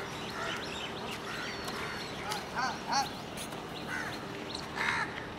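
Birds calling: a scatter of short chirps and squawky arched calls, several in quick succession past the middle.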